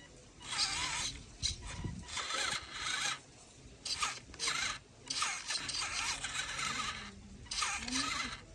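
Small electric motor and plastic gearbox of a radio-controlled toy tractor whirring in repeated short bursts, stopping and starting.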